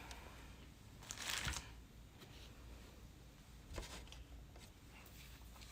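Faint handling sounds at a work table: a brief rustle about a second in and a light tap a little before four seconds, the kind made when setting out wooden paint stir sticks and clay.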